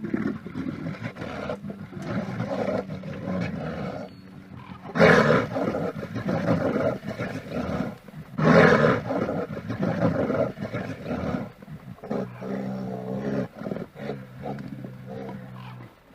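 A large wild animal roaring and growling, with two loudest roars about five and eight and a half seconds in, and a steady low growl near the end.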